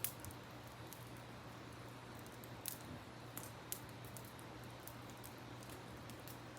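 Wood campfire crackling, with a few sharp pops over a steady rush of river water.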